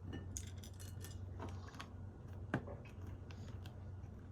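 Small plastic LEGO pieces rattling and clicking as they are handled, with a sharper single click about two and a half seconds in.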